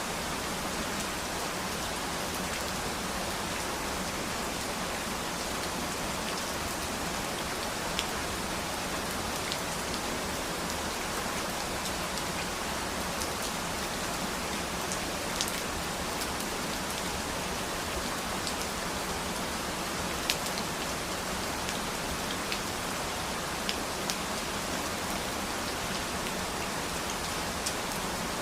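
Steady rain falling on a surface, an even hiss with occasional sharper drips and ticks of single drops.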